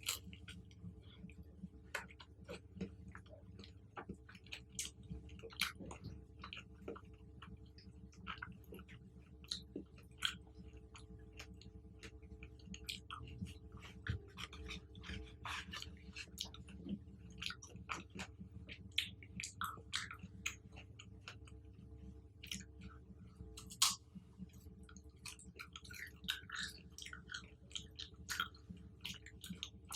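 Close-miked chewing of chocolate-covered fruit: a run of short, wet clicks and smacks, irregular and continuous, over a steady low hum.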